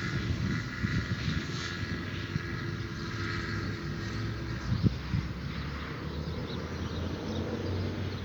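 Low, steady engine drone with an even hum, over outdoor ambience and a couple of faint knocks about five seconds in.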